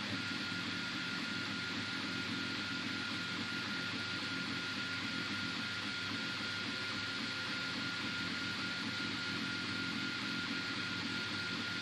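Anet A8 3D printer running mid-print: a steady whir with one constant high tone running through it.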